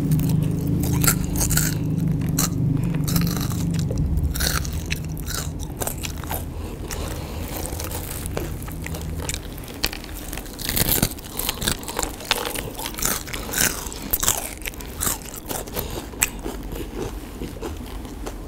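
Close-miked chewing and crunching of crispy battered fried cempedak, with many sharp crackles of the crisp batter.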